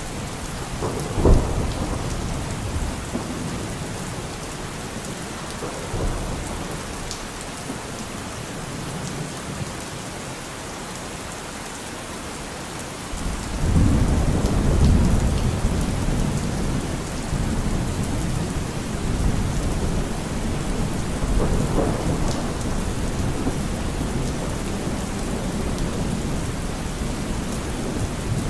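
Steady rain in a thunderstorm. There is a sharp crack of thunder about a second in, and a long, low rolling rumble of thunder begins about halfway through.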